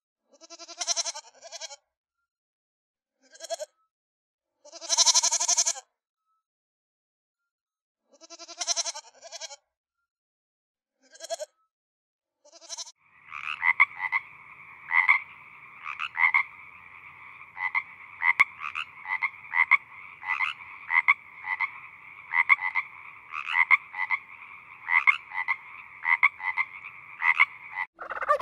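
A young goat bleating about six times, short calls a few seconds apart. Then, about thirteen seconds in, a frog croaking steadily, with louder croaks coming about one and a half times a second.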